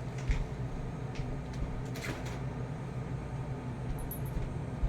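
A few light knocks and clatters of food items and shelves being handled in an open refrigerator, over a steady low hum.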